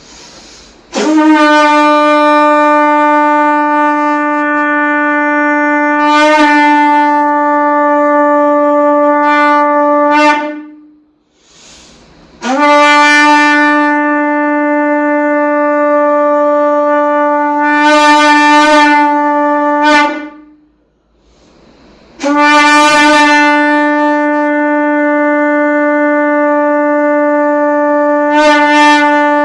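Conch shell blown in long held blasts at one steady pitch, three in all, each lasting nearly ten seconds with short pauses for breath between.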